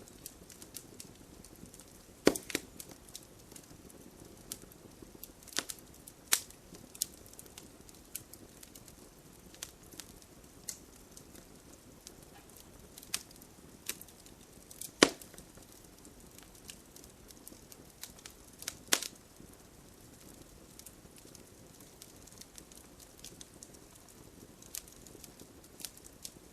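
Wood campfire crackling: irregular sharp pops and snaps over a faint steady hiss, a few louder snaps among them.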